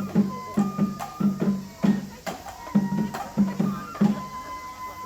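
Traditional Japanese festival music for a lion dance: a drum struck in quick, uneven beats with sharp clacks, under a high, held pipe-like tone that shifts slightly in pitch.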